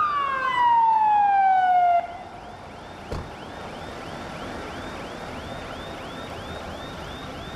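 Emergency-vehicle siren: a loud tone falling steadily in pitch for about two seconds, then a fainter rapid yelp, about three rises a second. A single knock sounds about three seconds in.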